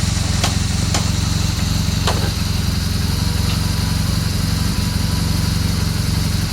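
Motorcycle engine running steadily at idle, with a few faint clicks in the first couple of seconds.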